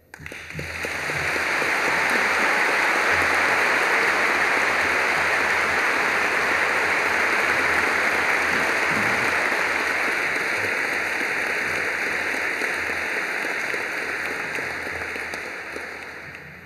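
Audience applauding, swelling over the first couple of seconds, holding steady, then dying away near the end.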